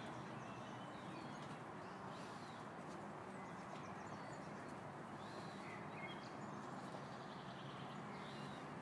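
Faint steady background hiss with a few scattered faint bird chirps.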